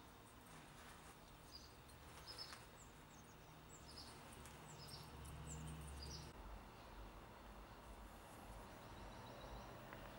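Faint outdoor ambience: a small bird gives short, high chirps about twice a second, stopping about six seconds in, over a low steady hum.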